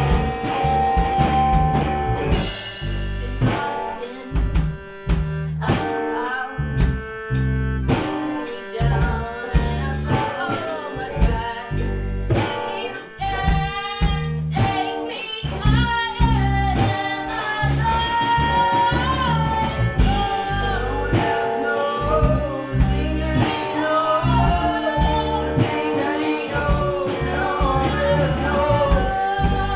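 Gypsy rock band playing live: drum kit keeping a steady beat under bass, guitar and accordion, with a wavering melodic line carried over the top through the middle and later part.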